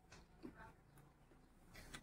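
Near silence, with faint mouth clicks of food being chewed and a soft hissy rustle near the end.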